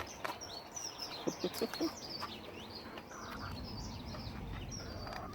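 Birds chirping: a quick run of many high, short chirps, with a few low hen clucks about a second and a half in.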